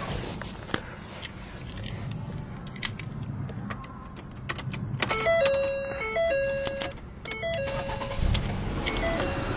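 Car keys jangling and clicking, then a short tune of steady electronic tones stepping between pitches. About eight seconds in, the 2011 Ford Fusion's V6 engine cranks and catches on a cold start, then settles into a steady low run.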